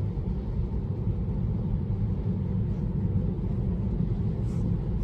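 Steady low road and tyre rumble heard inside the cabin of a Tesla electric car as it drives slowly.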